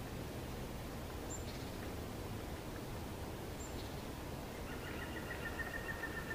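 Quiet forest ambience with two short, high bird chirps that drop in pitch, a couple of seconds apart. Near the end comes a steady high note, held for about a second and a half.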